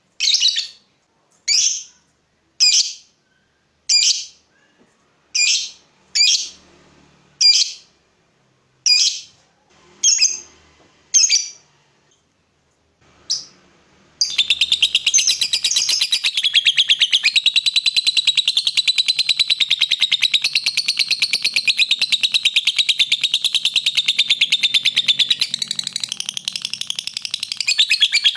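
Lovebird calls: about a dozen single sharp chirps, one roughly every second, then halfway through a long, unbroken rapid chattering trill (the lovebird's 'ngekek') that carries on without pause.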